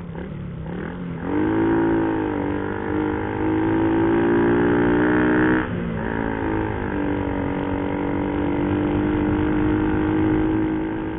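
Motorcycle engine running under way. It revs up about a second in and holds a steady note, drops off suddenly near the middle, then runs at a steady cruise.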